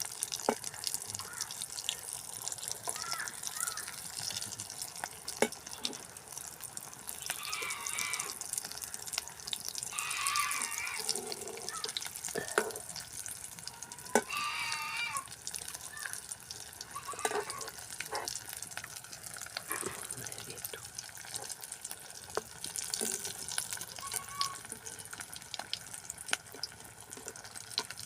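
Hot oil sizzling and crackling steadily as stuffed snacks deep-fry in a pan, with sharp pops and clicks through the hiss.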